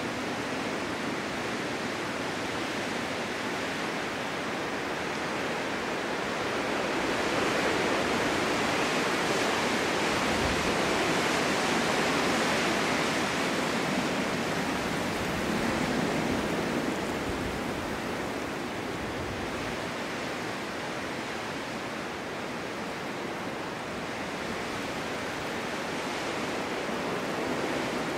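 Snowstorm wind blowing steadily, swelling into a long gust from about a quarter of the way in and easing off again past the middle.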